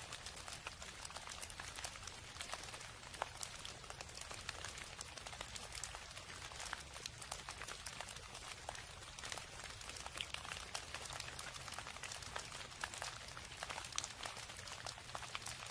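Steady rain: a dense patter of individual drops ticking over a soft hiss, with a low rumble underneath.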